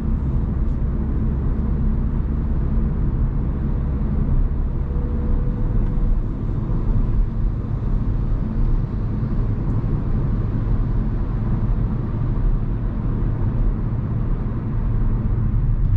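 Hyundai Kona Hybrid driving, with steady road and tyre rumble and the car's running noise; the low rumble shifts slightly about five seconds in.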